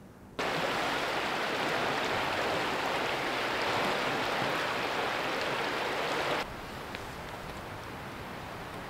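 Steady rushing water noise. It cuts abruptly to a quieter, similar steady noise about six and a half seconds in.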